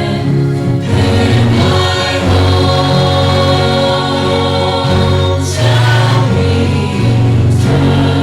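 Gospel hymn sung in church over instrumental accompaniment, with long held notes and chords changing every second or two over a steady bass.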